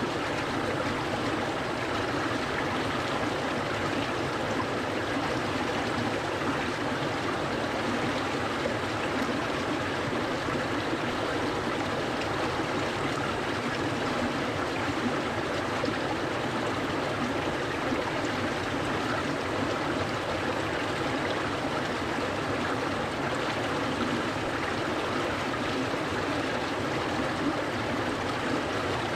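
A clear mountain stream flowing steadily over rocks, a continuous even rushing with bubbling and trickling.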